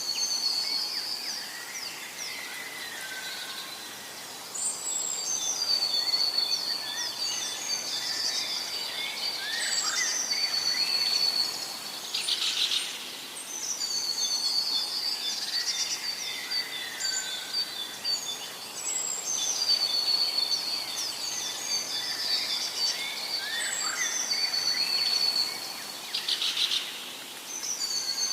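Birds singing: overlapping chirps and high whistled notes, one song phrase coming round again every several seconds, with a short fast buzzing trill twice, about halfway through and near the end.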